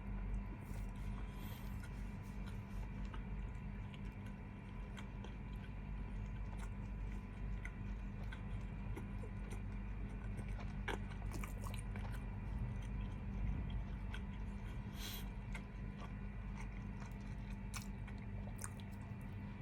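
A person chewing and biting food close to the microphone, with scattered small crunches and wet mouth clicks over a steady low background hum.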